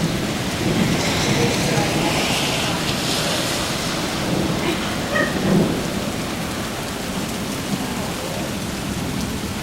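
Heavy rain falling, a steady hiss and patter that is a little stronger for a few seconds near the start.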